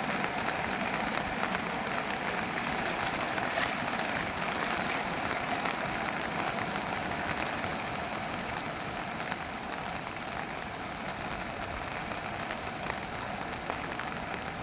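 Steady rushing of floodwater in a swollen stream, a continuous even noise that eases slightly in the second half.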